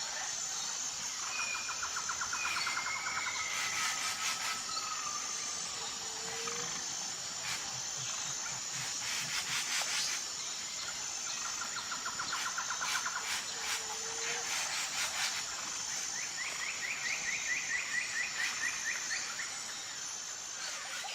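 Tropical rainforest ambience: a steady, high insect drone with a pulsing edge, over several bird calls, some rapid trills and some whistled notes, with an occasional short low call.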